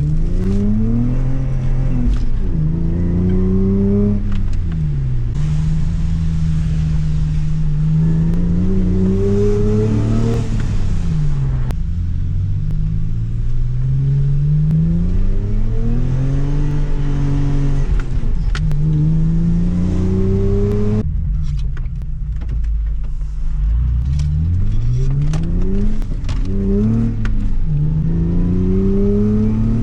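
Lexus IS300 Sportcross's 3.0-litre inline-six revving up and falling back again and again as the car is driven hard, pitch climbing and dropping every few seconds, with hiss at times.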